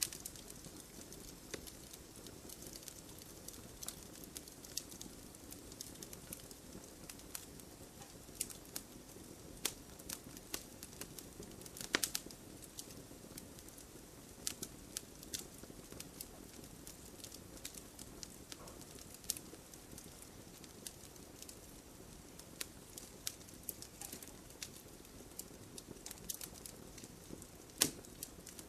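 Wood fire burning in a fireplace, crackling with irregular sharp pops over a soft, steady hiss, and one louder pop about twelve seconds in.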